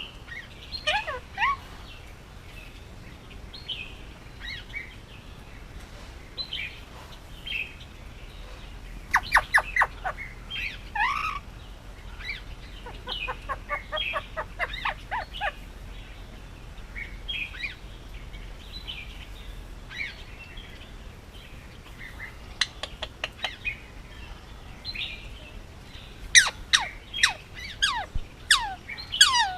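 Indian ringneck parakeet chirping and whistling in short scattered calls, with quick runs of sharp, falling notes about nine seconds in and again near the end.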